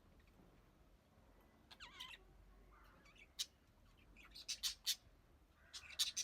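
Budgerigars giving short, sharp chirps and squawks: a gliding call about two seconds in, then single calls spaced out, three in quick succession past the middle, and two more near the end.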